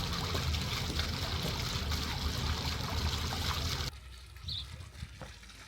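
Water running and trickling steadily, cutting off suddenly about four seconds in to a much quieter scene with a short high chirp.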